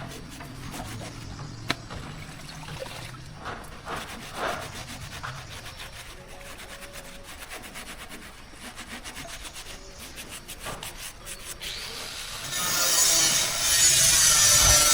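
Hand scraping and rubbing on a workpiece, with a few sharp knocks, then about twelve and a half seconds in a much louder, steady high hiss starts up.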